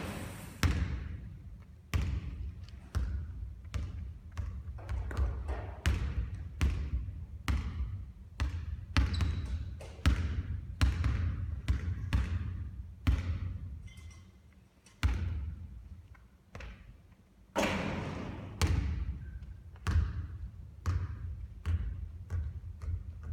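Basketballs bouncing on a court floor in a steady run of thuds, about one to two a second, with a louder, longer hit a little past halfway.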